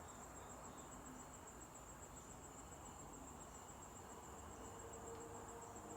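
Near silence, with a faint steady high-pitched tone running under a low background hiss.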